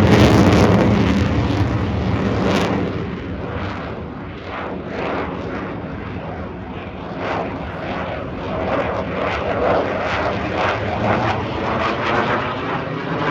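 Fixed-wing aircraft engines running as the aircraft comes in to land: a loud, rushing engine noise, loudest at the start, easing in the middle and building again near the end.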